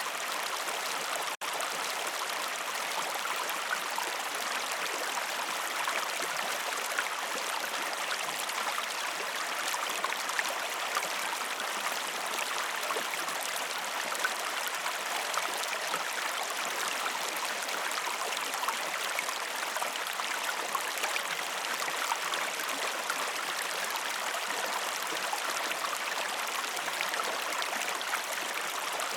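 Steady flowing stream water, an even rush with fine trickling flecks throughout; the sound drops out for an instant about a second and a half in.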